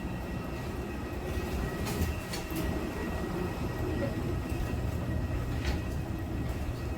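Steady low rumble of a vehicle in motion heard from inside, with a few short clicks and rattles.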